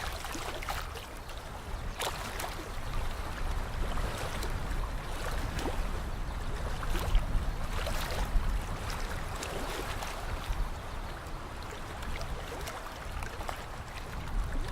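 Small waves lapping and splashing at the edge of a lake, with irregular little splashes and a steady low rumble underneath.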